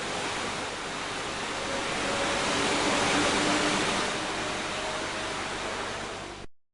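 Steady rushing hiss with a few faint steady tones in it, swelling in the middle and cutting off suddenly near the end.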